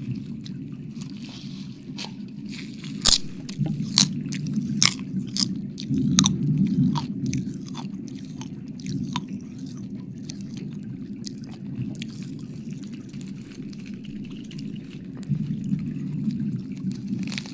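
Close-miked ASMR wet mouth and chewing sounds: sharp wet clicks and crackles, busiest a few seconds in and again near the end, over a steady low rumble.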